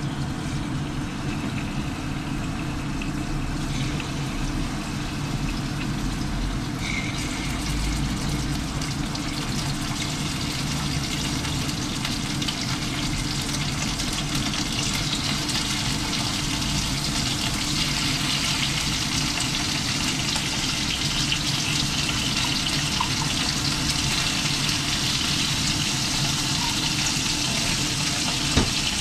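Chicken mid-wings sizzling as they fry in hot oil in a frying pan. The sizzle grows louder about a quarter of the way in as more wings go into the oil, over a steady low hum.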